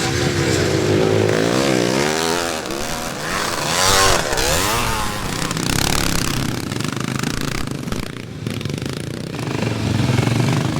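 Classic motocross bikes racing, their engines revving up and down in pitch. The loudest bike passes about four seconds in.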